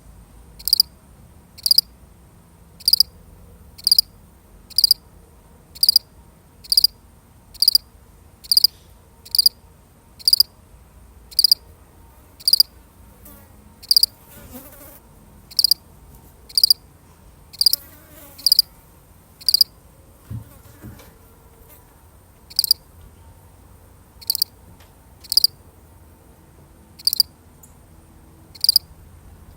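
A single field cricket chirping, short high chirps about once a second, steady at first and less regular with a few longer pauses in the second half.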